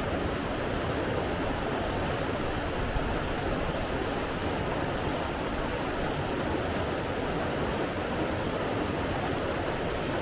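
Flowing water rushing steadily, an even hiss with no breaks or swells.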